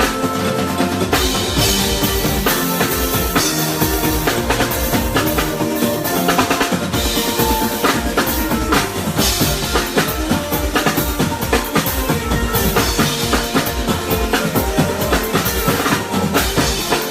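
Live band playing an instrumental passage, with the drum kit prominent (kick, snare and rimshots) over bass and other instruments, in a steady rhythm.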